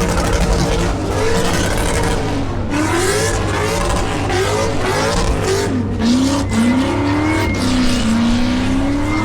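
A V8 car doing a burnout: the engine revs up and down over and over against a continuous hiss of spinning tyres, loud throughout.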